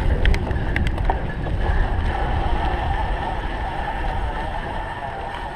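Wind buffeting the microphone as a cyclocross bike is ridden at race pace, a steady low rumble. A few sharp clicks come in the first second.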